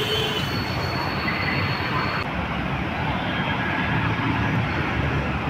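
Car driving, with a steady rumble of engine and road noise heard from inside the cabin.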